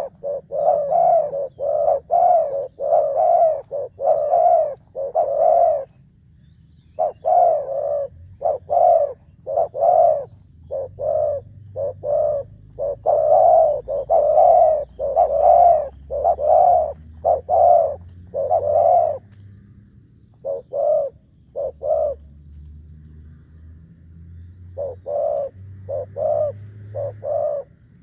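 Decoy spotted dove cooing: long runs of short, low coo notes following one another closely, broken by a couple of short pauses.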